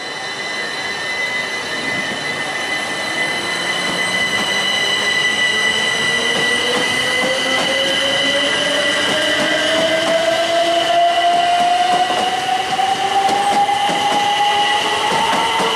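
A train accelerating, with a whine that rises steadily in pitch throughout and grows louder, over steady high-pitched tones.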